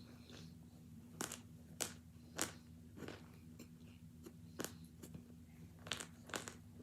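Hard chunks of boiled, frozen cornstarch being bitten and chewed: sharp, separate crunches, about seven in all.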